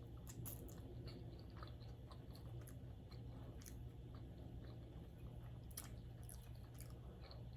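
A person chewing sushi with the mouth close to the microphone, soft wet chewing with small clicks and crackles, over a steady low hum.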